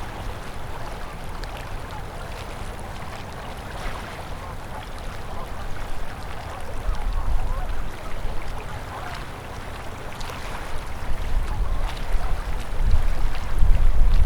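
Winter river water flowing steadily past ice, a continuous rushing and gurgling. A low rumble comes in about halfway and grows louder toward the end.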